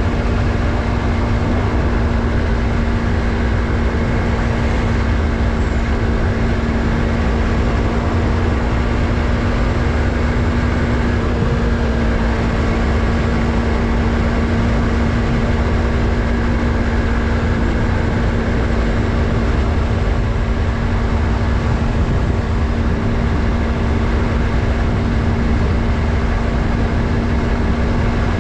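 Yamaha MT-03's 321 cc parallel-twin engine running at a steady, near-constant pitch while cruising, heard from on the bike, over a low rumble of wind noise.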